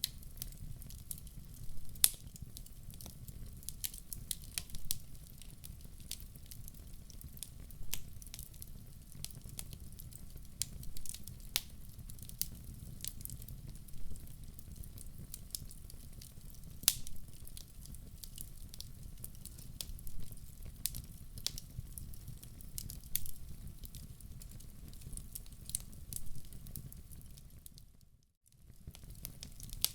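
Wood fire in a fireplace crackling: irregular sharp pops and snaps, one louder pop about two seconds in, over a steady low rumble of the flames. The sound cuts out for a moment near the end.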